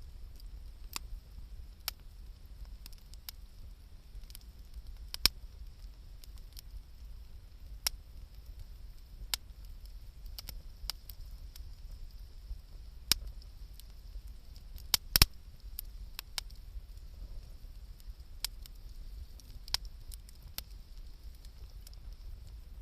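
Wood fire crackling, with irregular sharp snaps and pops over a steady low rumble; the loudest pops come about five seconds in and in a quick cluster around fifteen seconds in.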